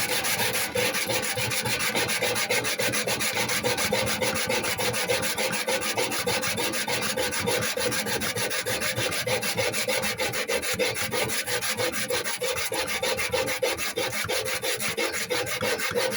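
Folded kitchen roll scrubbed hard and fast back and forth against the rusted inside wall of a microwave, used dry to rub off rust and flaking enamel: a steady rasping rub of rapid strokes.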